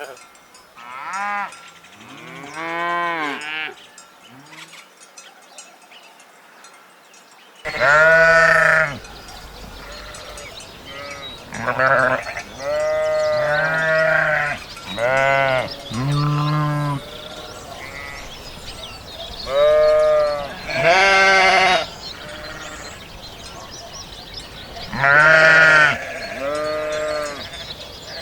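Sheep bleating repeatedly: about a dozen separate calls of differing pitch, some short and some drawn out over a second. A steady outdoor background comes in about eight seconds in.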